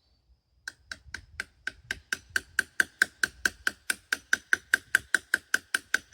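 Rapid, even hammer blows on metal, about four to five a second, each with a short metallic ring, driving a bearing or seal out of an excavator travel motor housing. The blows start about a second in and grow louder.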